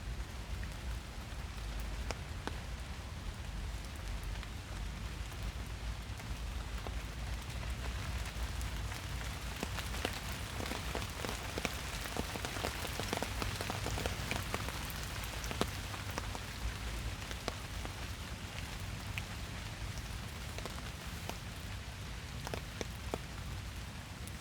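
Steady rain falling in a forest, with many separate drops pattering close by, heavier for a few seconds around the middle.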